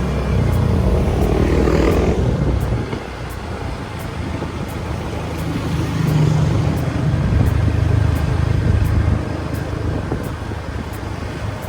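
Motorbike engine running under way with road and wind noise, its level swelling and easing twice as the ride goes on.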